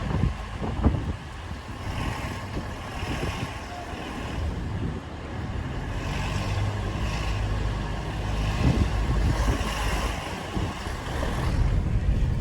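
Street traffic: motor vehicles running and passing, a steady low engine rumble with road noise.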